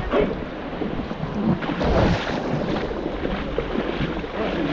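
River water rushing and splashing around an inflatable raft on whitewater, with wind on the microphone.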